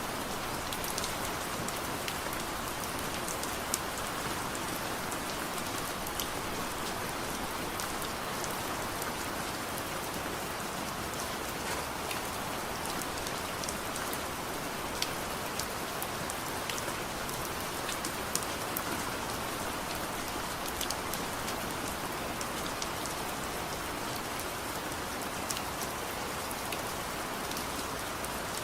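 Steady soft rain falling, an even hiss with scattered sharp clicks and ticks.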